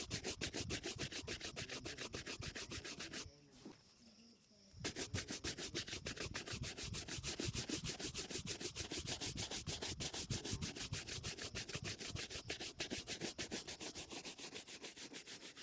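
Rapid, even rubbing strokes buffing a shoe during a shoe shine, several strokes a second. They pause briefly about three seconds in, then resume.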